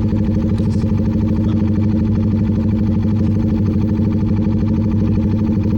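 CFMoto 300NK's single-cylinder engine idling steadily at a stop, with an even, unchanging pitch.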